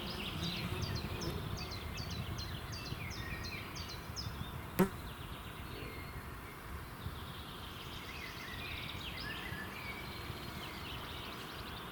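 Songbirds singing in a pine forest: one bird repeats a quick series of about ten high, falling notes, and other birds chirp later on, over a steady low background hiss. A single sharp click stands out just before the middle.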